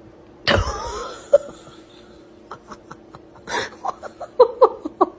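A sudden loud burst about half a second in, then a person laughing in short, quick bursts through the second half.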